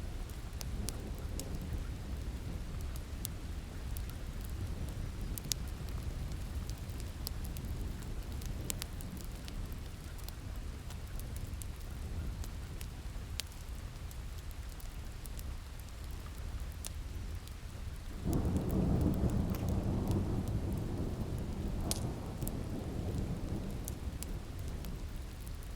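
Rain falls steadily while a wood fire crackles with scattered sharp pops. About eighteen seconds in, a roll of thunder swells and fades away over several seconds.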